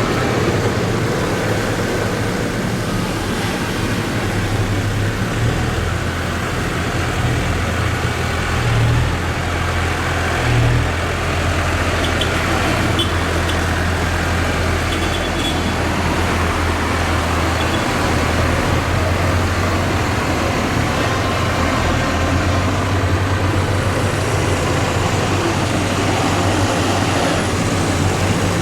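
Diesel tractor engines running as a procession of tractors passes by: a steady low engine drone that swells briefly twice about a third of the way in.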